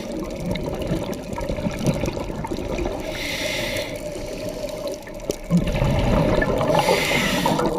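Scuba regulator underwater: a breath drawn through it with a hiss about every three and a half seconds, twice, over a steady churning of exhaled bubbles.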